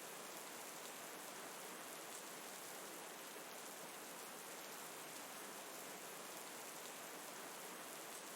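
Steady rain falling: an even, unbroken hiss with no change in level.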